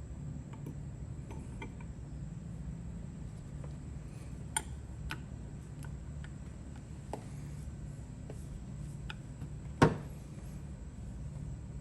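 Scattered light metallic clicks and taps of small ratchet parts being handled and fitted during reassembly, with a sharper click about halfway and one louder knock near the end, over a steady low hum.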